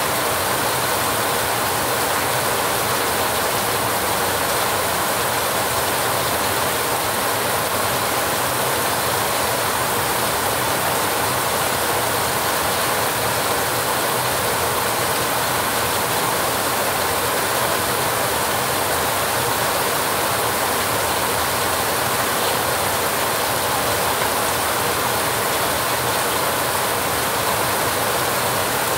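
Heavy rain falling steadily on a rusty metal roof, an even, unbroken wash of sound.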